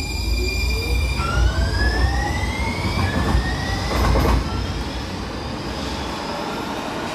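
Muni Metro Siemens light rail car moving through the underground station: electric drive whine in several tones gliding upward in steps over a heavy low rumble. The rumble is loudest up to about four seconds in, then eases.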